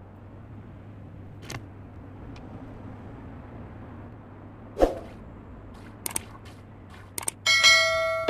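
Steady low hum and faint hiss with a few sharp clicks or taps, the loudest about five seconds in; electronic music starts near the end.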